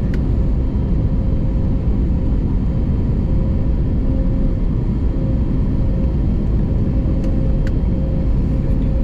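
Steady cabin rumble of an Airbus A321neo airliner, engine and airflow noise with a faint steady hum, and a couple of faint clicks about seven seconds in.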